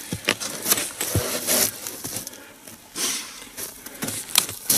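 Split log being handled and stood upright: scattered wooden knocks and clicks with short scrapes and rustles.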